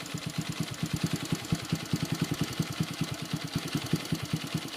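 2002 Yamaha TT-R125's single-cylinder four-stroke engine idling steadily through a Pro Circuit aftermarket exhaust, about ten exhaust pulses a second.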